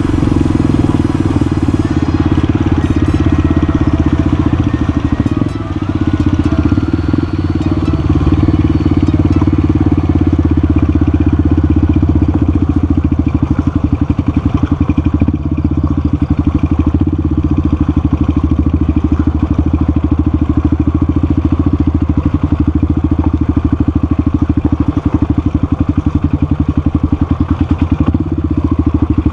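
Motorcycle engine running steadily while riding, with a constant low rumble and no sharp revs.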